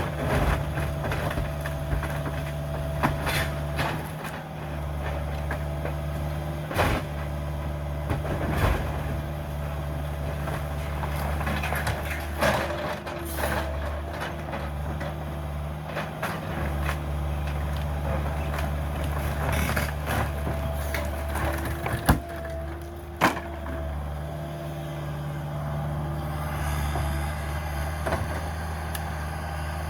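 Caterpillar 305 mini excavator's diesel engine running steadily under demolition work, broken by scattered knocks and cracks of breaking debris. Two sharp cracks stand out about two-thirds of the way through.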